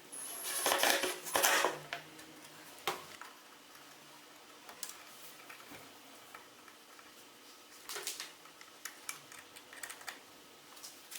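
Hard objects being handled and set down: two short bursts of clattering about a second in, then scattered light clicks and taps.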